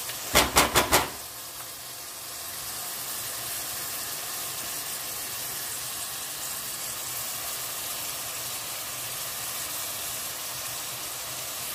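Minced meat and chopped vegetables sizzling steadily as they fry in a pot. Four quick, sharp knocks come in a rapid cluster about half a second in.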